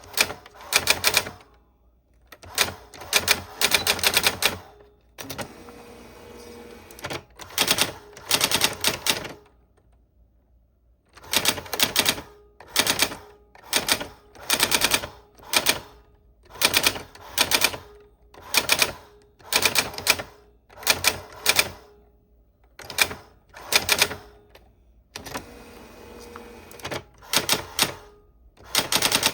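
Old typewriter being typed on: keys striking in quick bursts of clacks with short pauses between them, and two longer quieter spells.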